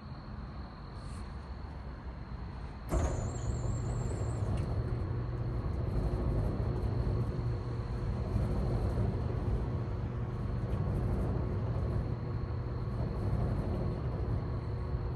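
Goodman CPG 7.5-ton commercial packaged air conditioner starting up: a steady low hum, then about three seconds in a sudden, louder step as more of the unit kicks on, after which it runs steadily.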